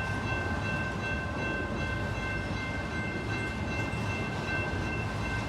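A train rolling past, a steady low rumble with a few faint high steady tones over it.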